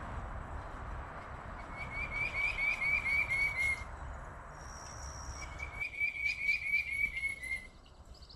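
Woodland calls: a low pulsing trill heard twice, about two seconds each, with a brief high whistled note between them, over a rushing background noise that falls away about six seconds in.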